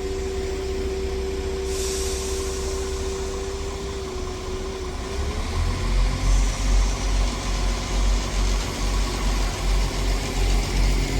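Diesel train engine running at the platform with a steady whine. There is a brief hiss of air about two seconds in, and from about halfway a deep rumble that swells and fades about once a second.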